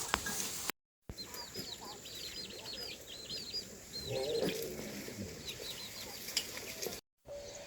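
Birds chirping: rapid runs of short, high chirps, with a lower warbling call about four seconds in.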